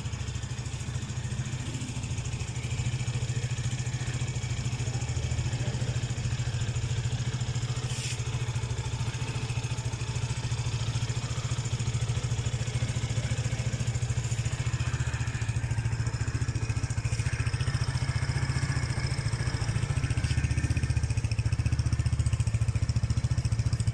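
Rusi Classic 250 motorcycle engine idling steadily.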